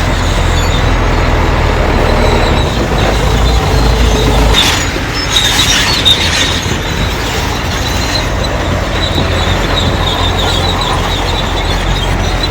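Crawler bulldozer working: its diesel engine runs under load while the steel tracks give a high, squealing screech. A louder, rougher stretch comes about five seconds in.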